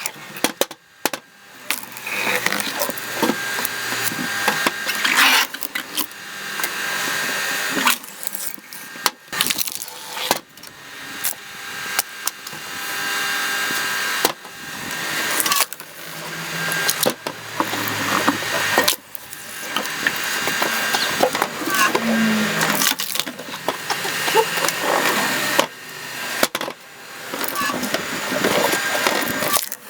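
Screw-cone log splitter boring into firewood logs: the wood creaks, crackles and splits with sharp cracks again and again, with a steady motor hum underneath.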